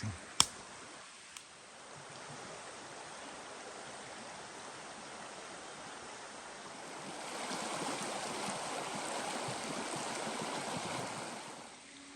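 A stream running steadily, louder from about seven seconds in. There is a sharp click just under half a second in.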